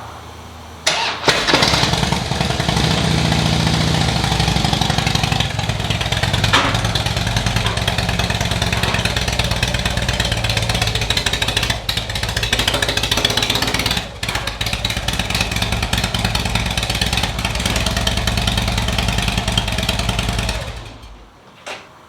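A 2008 Harley-Davidson Night Train's V-twin on its stock exhaust, started about a second in and running steadily for about twenty seconds with a few small changes in engine speed, then shut off near the end.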